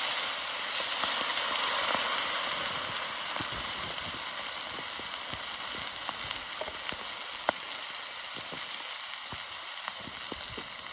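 Ground beef and vegetables sizzling in a hot cast iron Dutch oven as canned diced tomatoes go in, with scattered small pops. The sizzle is loudest at first and eases a little as it goes on.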